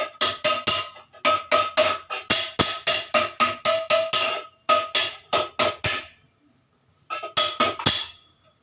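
Rapid hammer blows on metal, about four a second, each ringing at the same pitch; the blows pause about six seconds in, then a few more follow near the end.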